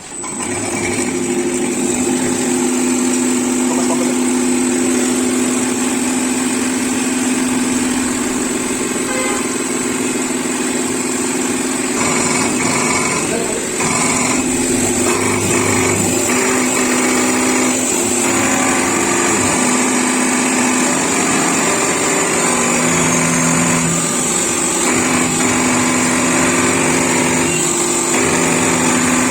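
A diesel fuel-injection pump test bench is running, its motor spinning a rebuilt JCB Delphi fuel pump so the pump can be checked after repair. It makes a steady mechanical hum with a high whine, and its tone shifts slightly about halfway through and again near the end.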